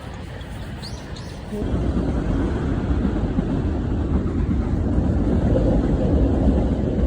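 Steady low rumble of a moving vehicle, growing louder about a second and a half in and holding there.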